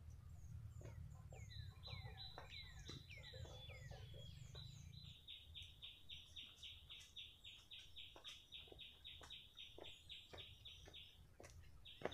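A bird calling: a string of falling whistles, then a fast, even run of high notes, about four or five a second, that stops near the end. Faint scattered clicks are heard under it.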